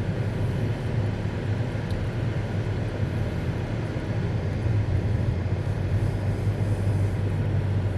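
Steady road noise inside a moving car's cabin: a constant low hum of engine and tyres.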